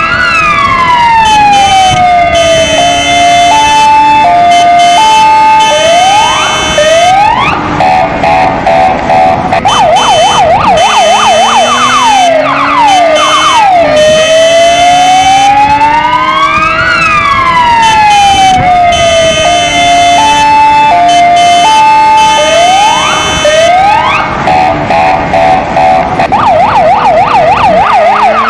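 Kingvox ERP electronic siren cycling through its tones: a slow rising-and-falling wail, a two-note hi-lo, then fast yelps. The sequence repeats about every 16 seconds, over a lower engine-like tone, the siren's simulated motorcycle sound.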